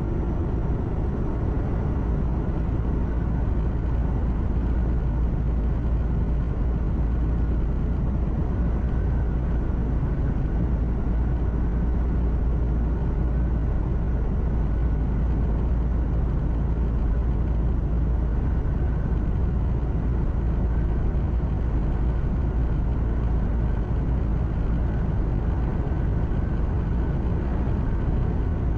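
Steady engine drone and deep road rumble of a truck driving, heard from inside the cab, with no changes or sudden sounds.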